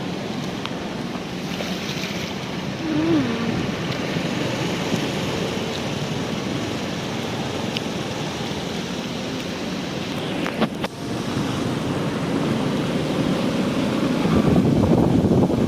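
Steady rushing noise of floodwater and wind on the microphone, growing louder near the end, with a short sharp knock about eleven seconds in.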